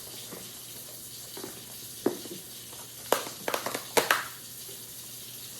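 Kitchen dishes and containers handled on a counter: a single click about two seconds in, then a quick run of light clicks and knocks, over a steady faint hiss.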